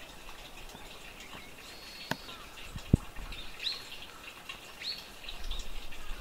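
Small birds giving short chirps and calls, some with a quick rising note. There are two sharp clicks, about two and three seconds in, and the second one is the loudest sound.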